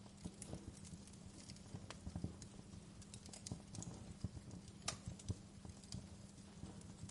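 Wood fire crackling, with irregular snaps and pops and a sharper snap about five seconds in, over a steady low hum.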